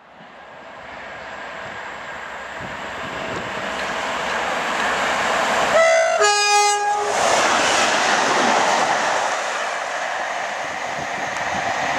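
Train of a Class 57 diesel locomotive and two HST power cars approaching along the line, its running noise growing steadily louder. About six seconds in it sounds a two-tone horn: a short high note, then a longer low note.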